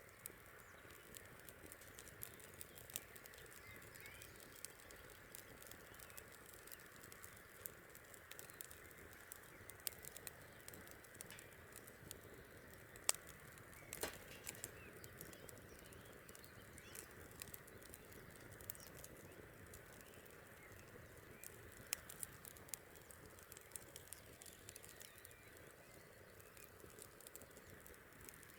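Wood campfire crackling faintly, with scattered sharp pops and snaps, one louder crack about halfway through, over a steady soft hiss.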